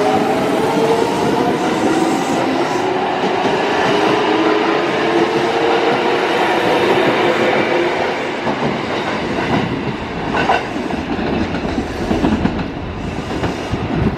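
Kintetsu electric train running through the station: a motor whine in several tones slowly falls in pitch over loud running noise. After about 8 s the sound eases and the wheels clack over rail joints.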